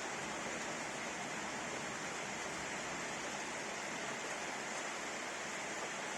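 Steady rain shower falling, an even hiss with no thunder or other distinct events.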